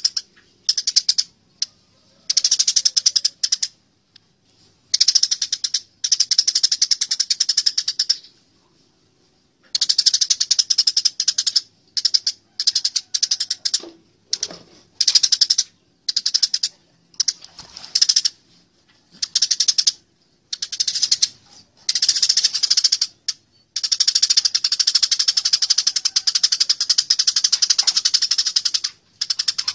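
Eurasian tree sparrows chattering in rapid bursts, the agitated calls of sparrows fighting. The bursts come in runs of a fraction of a second to a few seconds with short gaps, the longest run near the end.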